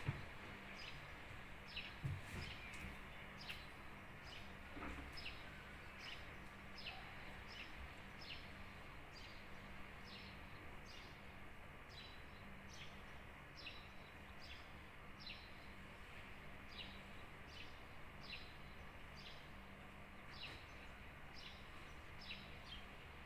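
A bird calling over and over, a short high note sliding downward, repeated a little more than once a second. A steady low hum lies under it, and there are a few soft clicks in the first seconds.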